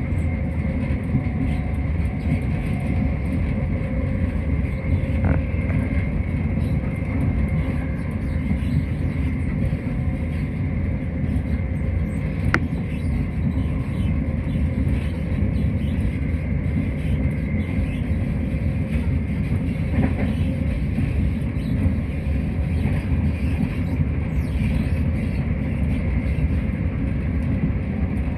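Interior running noise of a Class 170 Turbostar diesel multiple unit at speed: a steady low rumble with a faint high whine, and one sharp click about twelve seconds in.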